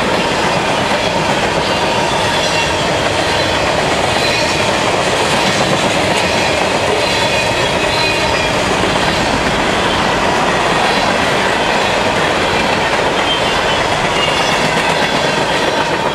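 Norfolk Southern freight train's tank cars and covered hoppers rolling past close by: a steady, loud rumble and clatter of steel wheels on the rails, with brief faint high wheel squeals now and then.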